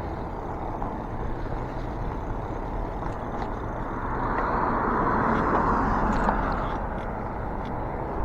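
Road traffic noise with a steady low rumble. One vehicle's tyre noise swells and fades as it passes, about four to seven seconds in.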